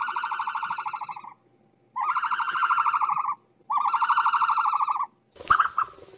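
Ostrich calls: three long buzzing calls of about a second and a half each, then a scratchier, noisier burst with two short calls near the end.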